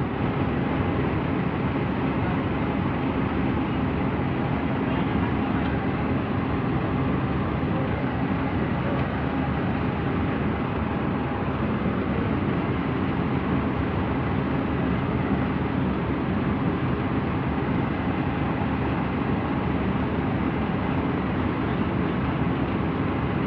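Heavy diesel engine running steadily during a crane lift.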